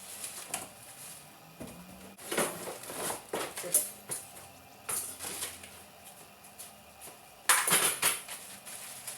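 Irregular rustling and clattering handling sounds in short bursts. The loudest cluster comes about two-thirds of the way in.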